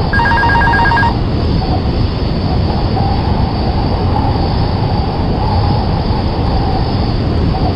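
A loud, steady rumbling noise with a faint wavering tone, with a rapid electronic beeping for about the first second.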